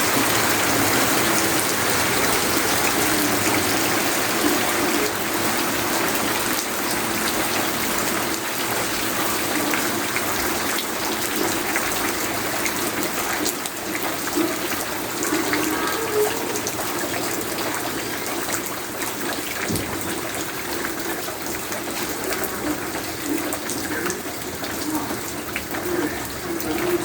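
Steady rushing water, a continuous wash of noise.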